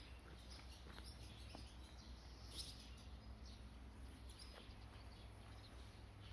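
Faint outdoor background, almost silent, with scattered soft ticks and rustles and one brief high-pitched chirp-like sound about two and a half seconds in.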